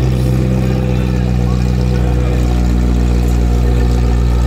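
McLaren Senna GTR's twin-turbo V8 running steadily at low revs, a deep, even engine note with no revving.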